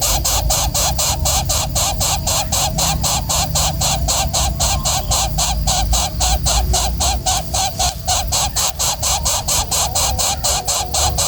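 Bird calling in a fast, even run of chirring pulses, about six a second.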